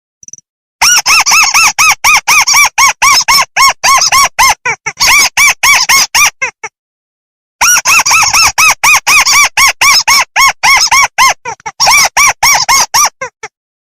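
Rice-field crake (burung tikusan) calling: fast runs of short, arched nasal notes, about five a second, with a pause of about a second midway and a stop shortly before the end.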